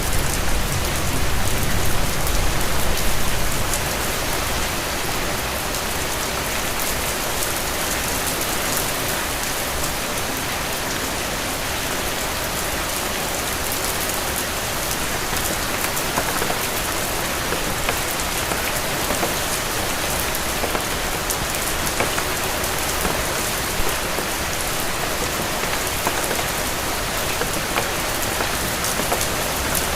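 Steady rain falling, an even hiss with scattered drop patter. A low rumble beneath it dies away about three and a half seconds in.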